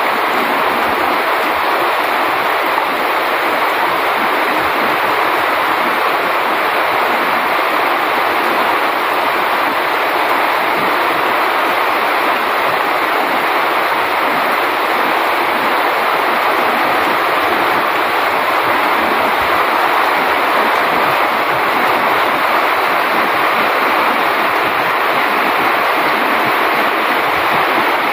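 Heavy tropical rain pouring down steadily, an even, unbroken hiss of rain on leaves and ground.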